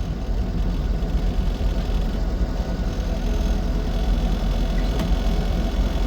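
An Austin Seven Ruby's small four-cylinder side-valve engine running steadily on a drive, a deep even rumble.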